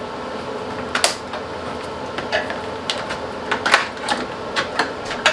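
Plastic air guards and their clips being pried off and handled: a string of sharp, irregular clicks and clacks, the first about a second in, over a steady hum.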